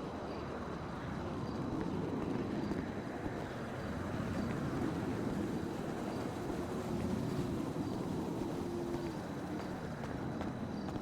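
Car engines running, a steady low engine sound whose pitch wavers slightly.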